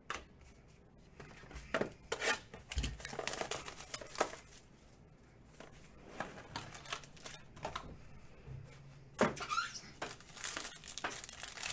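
Trading card packs and boxes being opened and cards handled: irregular crinkling, tearing and sliding rustles with small clicks, coming in clusters.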